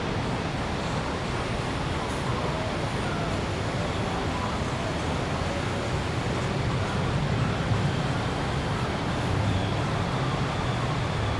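Steady city street ambience: a continuous wash of road traffic with a low engine rumble that swells a little now and then.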